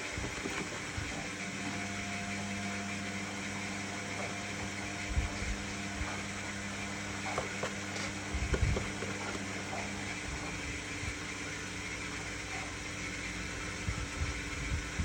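Indesit My Time EWD61052 front-loading washing machine running a wash, a steady motor hum with a few dull knocks from the drum. Part of the hum stops about ten seconds in.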